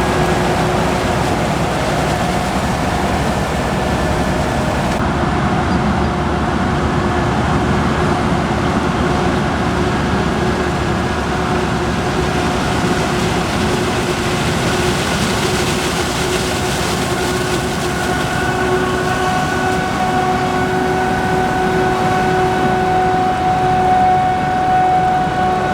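Heavy maize-harvest machinery running steadily, a dense engine-and-drive noise with a steady whine over it. The sound shifts slightly about five seconds in and again near eighteen seconds.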